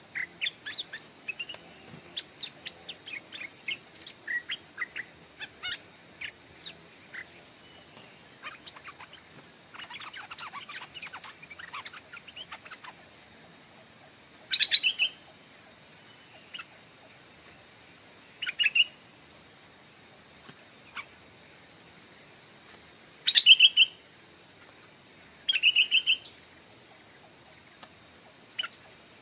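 Stripe-throated bulbuls calling: many short chirps through the first half, then four loud, brief song phrases spaced a few seconds apart.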